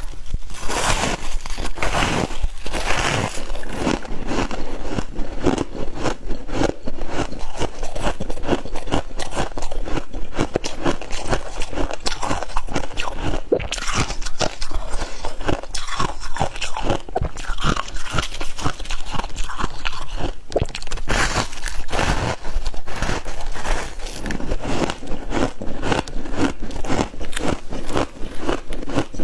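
Crispy frost ice being bitten and chewed close to the microphone: dense, rapid crunching and crackling that keeps up without a break.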